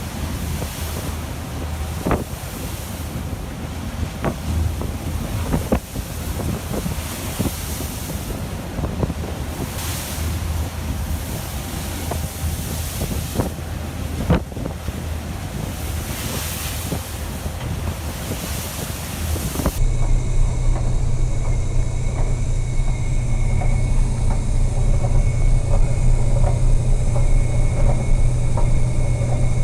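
Sea and wind noise with scattered sharp knocks and creaks. About two-thirds of the way through it cuts suddenly to a steady low hum with a faint high whine over it.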